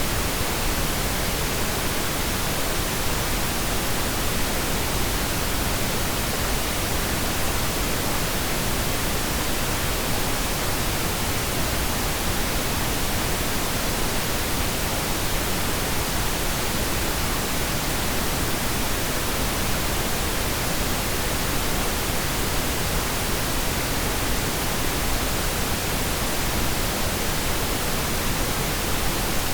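Steady pink noise: an even, unchanging hiss spread across the whole range from deep rumble to high hiss, with no breaks or events.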